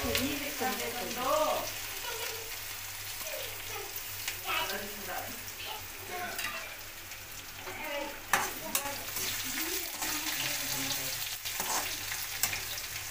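Vegetables sizzling in oil in a steel kadai on a gas stove, with a slotted metal spoon stirring and scraping, clicking sharply against the pan a few times, loudest about eight seconds in.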